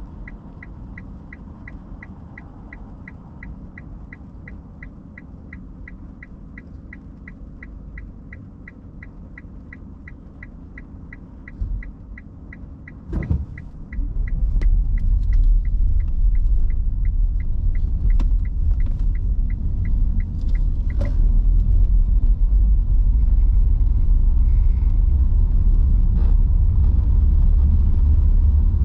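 Turn-signal indicator ticking about twice a second inside an electric car's cabin, stopping about three-quarters of the way through. About halfway in, after a knock, the car pulls away and a loud low rumble of tyre and road noise takes over and holds steady.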